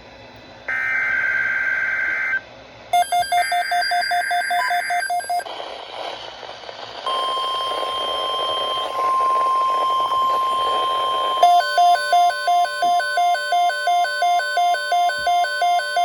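NOAA Weather Radio alert. Harsh buzzing SAME digital header bursts come twice in the first five seconds. About seven seconds in, a steady warning alarm tone starts, and from about eleven seconds an electronic alarm beeps about twice a second.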